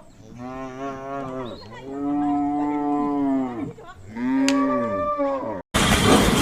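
A cow mooing three times, long calls that rise and fall in pitch, the middle one the longest. Near the end it cuts off abruptly to a rough, noisy sound.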